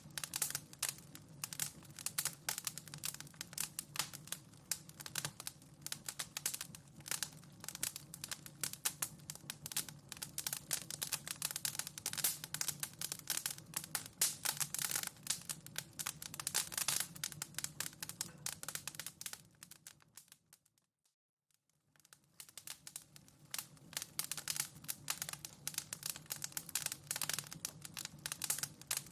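Fire crackling in a fireplace: dense, irregular pops and snaps over a steady low rumble. About two-thirds of the way through it fades to near silence for a second or two, then comes back.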